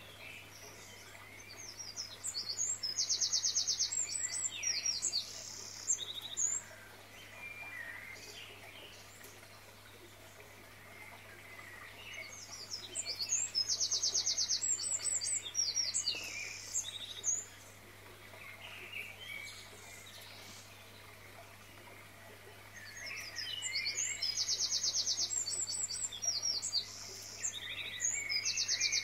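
Birdsong: the same song phrase, high-pitched with a fast trill, comes three times about every ten seconds and lasts several seconds each time, over a faint steady hum.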